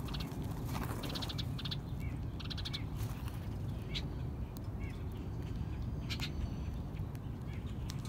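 Wild birds calling: two short runs of harsh, raspy calls in the first three seconds, then a few single short chips, over a steady low rumble.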